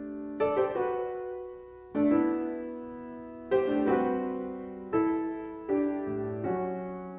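Piano playing a slow run of chords, each struck firmly and left to ring and fade before the next, about six in all.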